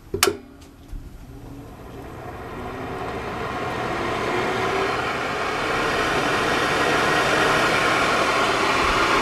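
A switch clicks on, then the Mimar hair dryer's fan motor spins up on the cool-air setting, its whir and hum growing louder over several seconds and settling into a steady run.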